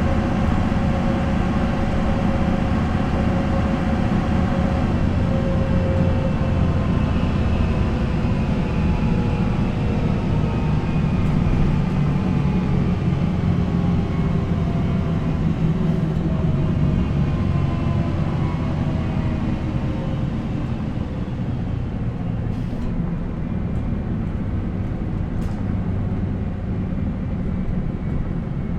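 MAN NL 263 city bus running with its D28 diesel engine and ZF Ecomat automatic gearbox; the engine and transmission whine holds steady at first, then falls slowly in pitch for over ten seconds as the bus slows down.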